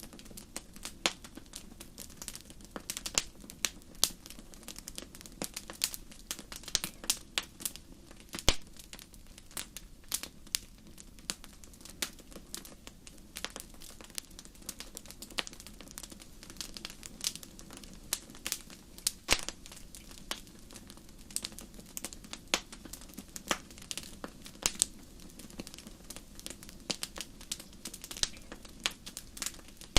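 Wood fire burning in a fireplace, with frequent irregular sharp crackles and pops over a low steady rush of the flames.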